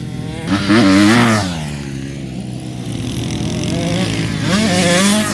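Dirt bike engine revving on the track, its pitch rising and falling with the throttle about a second in, then steadier, with another climb in revs near the end.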